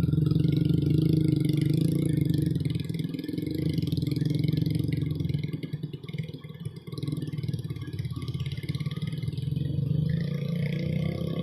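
Rice combine harvester running and harvesting, a steady mechanical engine drone that dips briefly about six seconds in, with a rising whine near the end.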